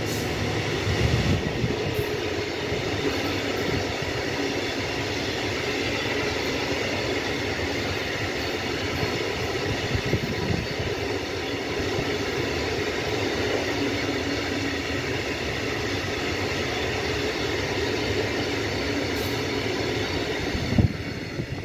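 Freight train of open box wagons rolling past: a steady rumble and clatter of steel wheels on the rails. The sound drops away near the end as the last wagon goes by.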